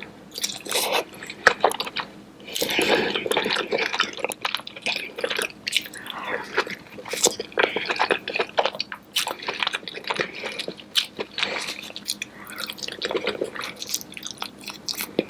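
Close-miked wet eating sounds of a saucy seafood boil: squishing, sucking and chewing, with many sharp little clicks throughout.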